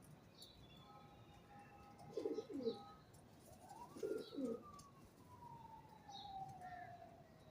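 Pigeons cooing: two short double coos about two seconds apart, with faint small-bird chirps. Over the second half a long tone slides slowly down in pitch.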